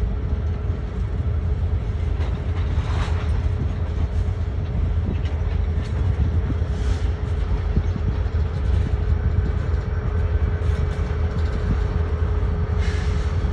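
Union Pacific train rolling along the tracks: a steady heavy rumble with a constant hum over it, and a few brief hissing or screeching sounds from the wheels and cars.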